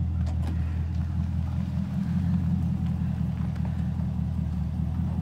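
Chevrolet Camaro SS's LT1 V8 running at idle as the car creeps forward at walking pace: a steady low rumble that swells slightly about two seconds in.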